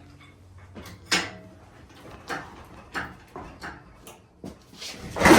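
Tools and parts knocking and clanking during work under the truck, as separate knocks about a second apart, the loudest near the end.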